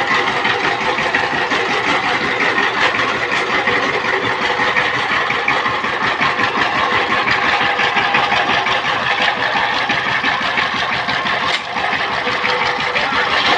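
Power tiller's single-cylinder diesel engine running steadily with a fast, even clatter, dipping briefly near the end.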